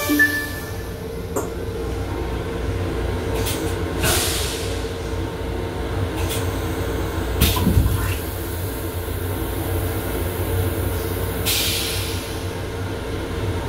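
Long Island Rail Road M7 electric railcar running, a steady rumble under a constant hum, with several short hisses, the clearest about 4, 7.5 and 11.5 seconds in.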